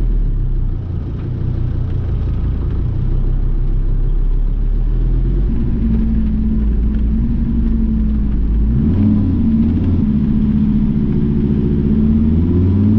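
Mercedes T1 camper van's diesel engine pulling under load, its note changing about six seconds in and again about nine seconds in as it revs and shifts gear.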